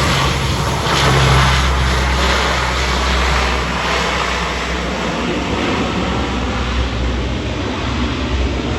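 A passing aircraft's engines, a loud, steady rush of noise with a deep low rumble, strongest about one to four seconds in.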